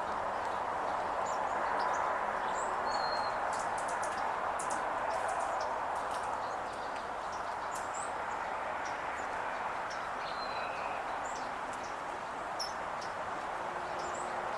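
Small songbirds, sparrows at a feeding spot, giving many short high chirps and tweets over a steady background noise.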